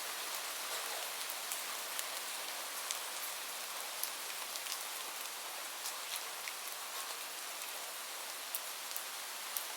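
Gentle rain falling steadily as an even hiss, with scattered sharp pops and crackles from a wood fire.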